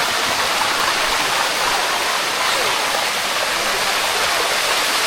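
Steady rush of shallow water cascading over the limestone steps of a waterfall, an even splashing hiss with no breaks.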